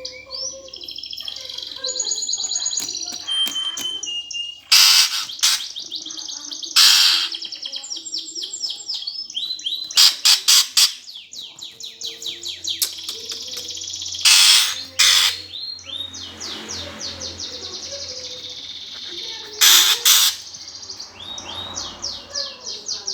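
Eurasian tree sparrows squabbling: rapid, unbroken high chirping trains broken by several loud, harsh chattering outbursts.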